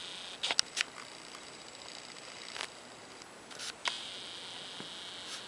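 A few sharp clicks and taps from hands handling a handheld camera and a small plastic-and-metal scale model: three close together in the first second, one a couple of seconds in, and a pair about four seconds in.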